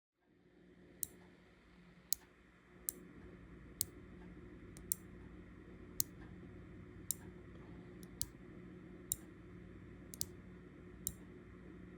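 Small switch clicking sharply about once a second, over a low steady hum. It fits the microwave's door-interlock microswitch being pressed and released to test it after it had been sticking.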